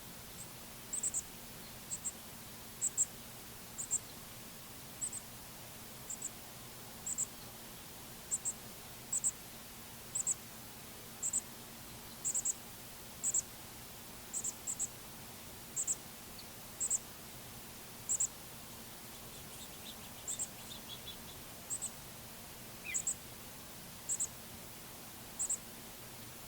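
High, thin bird call notes, short chips repeated about once a second and often doubled, over faint steady outdoor background noise.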